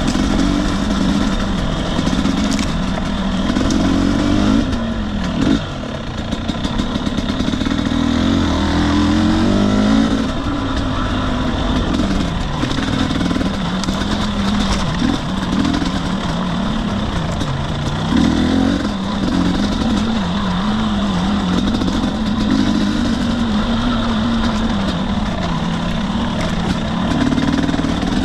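2021 Husqvarna TE250i's two-stroke single-cylinder engine running as the dirt bike is ridden on trail. The engine note keeps rising and falling with the throttle, drops briefly about five seconds in, then climbs again.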